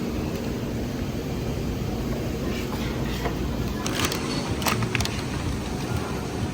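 Road and engine noise heard inside a moving car, a steady rumble and hiss, with a few sharp clicks a little past the middle.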